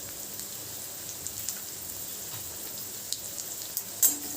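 Whole spices (garam masala, dried red chillies and cumin seeds) sizzling in hot oil in a kadai, a steady hiss with scattered pops, and a sharper click about four seconds in.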